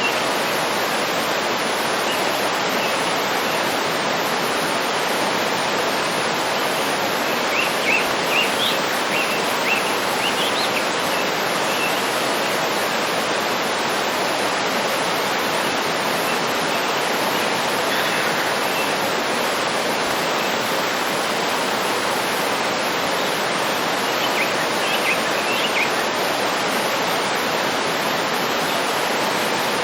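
Waterfall rushing steadily, with a few faint bird chirps at about eight to eleven seconds in and again near the end.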